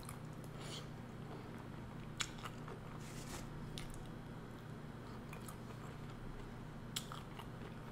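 Close-miked eating sounds: chewing and wet mouth smacks from potatoes and shrimp in seafood boil sauce, with fingers licked clean. A few sharp clicks stand out, the clearest about two seconds in and again near seven seconds, over a steady low hum.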